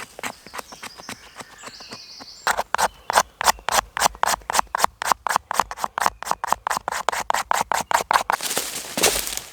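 A hand tool working wood in quick, even strokes, about six a second, starting a couple of seconds in and stopping shortly before the end, followed by a brief rustle.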